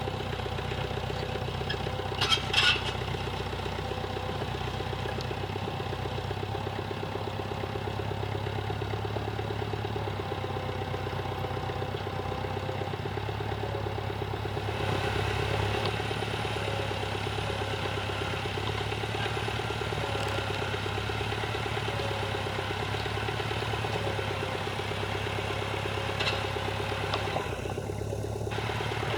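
Tractor engine running steadily while levelling a field, with a short burst of sharp clanks about two seconds in. The engine note grows a little louder and brighter about halfway through.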